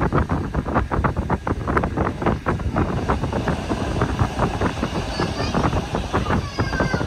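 Bernese Oberland Railway train running on the track, its carriage rattling and knocking in a rapid, uneven clatter over a low rumble, with wind on the microphone. Twice in the second half the wheels give a brief high-pitched squeal.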